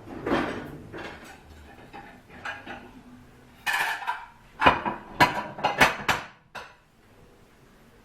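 Dishes and cutlery being handled: a series of clinks and knocks, with a short rush of noise about four seconds in and a quick run of louder knocks just after, ending about a second before the end.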